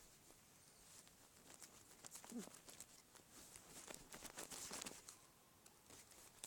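Faint rustling and clicking, with one brief low-pitched cat vocalization a little over two seconds in.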